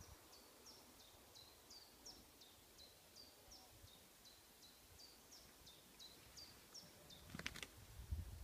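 A small bird singing in the background: a short, high, falling chirp repeated about three times a second, stopping about seven seconds in. A brief sharp noise follows, with a low rumble near the end.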